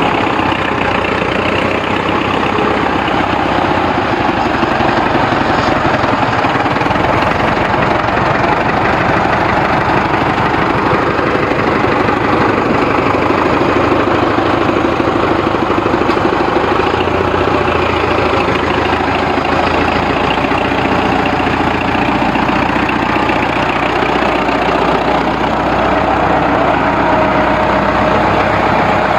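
Ford 6600 tractor's three-cylinder diesel engine running steadily at a low, even speed.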